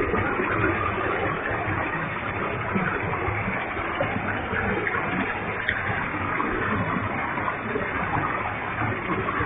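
Waterfall with a heavy flow, water crashing down in a steady, even roar of rushing water.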